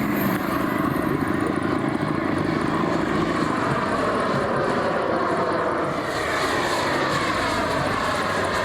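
Radio-controlled model aircraft engine running in flight. The engine note shifts in pitch as it passes, falling in the last few seconds.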